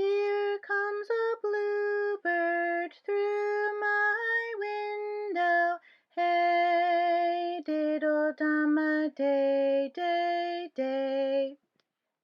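A woman singing a simple children's song melody in two phrases, note by note at a steady pulse, with a short break between them about six seconds in. The tune stops shortly before the end.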